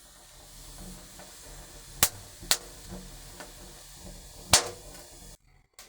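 Newly lit wood fire in a pizza oven, hissing steadily with three sharp crackling pops. The loudest pop comes near the end.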